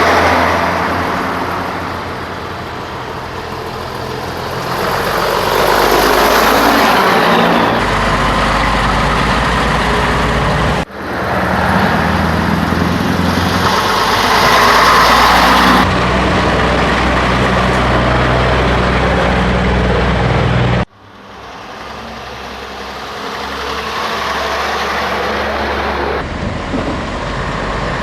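Scania truck's diesel engine running while driving, its pitch and loudness rising and falling. The sound breaks off abruptly twice, about 11 and 21 seconds in, and each time builds back up.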